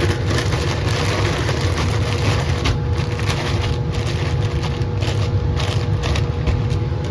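Laminar flow hood fan running with a steady low hum, over irregular rustling and crunching of oat grain in plastic spawn bags being shaken to spread freshly inoculated mycelium through the grain.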